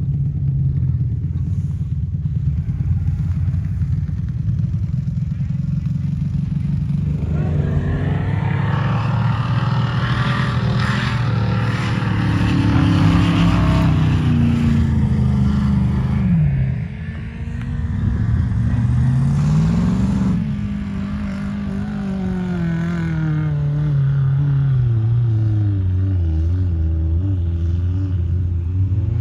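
Off-road vehicle's engine running under load, revving up and down: its pitch climbs and drops a few times in the middle, peaks about twenty seconds in, then falls away to a lower, steadier note.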